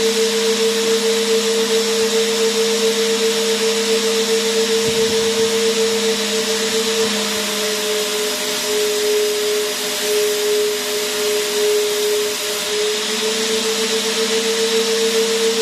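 Vacuum cleaner motor running continuously: a steady high whine over a broad hiss of rushing air. About halfway through, the whine drops a little in pitch for several seconds, then comes back up.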